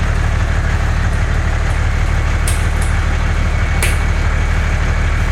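Steady, loud low rumble of an engine running, like a heavy vehicle idling.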